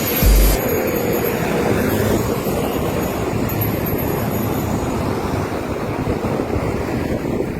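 Steady rush of wind over the microphone with road noise, as from a camera on a moving bicycle, with a heavy low buffet just after the start.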